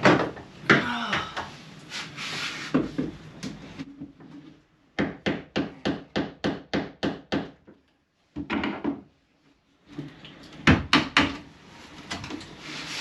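Knocking on wood inside the boat's interior: handling and rubbing at first, then a quick run of about ten even knocks at roughly four a second, and a few more knocks near the end, like hammering.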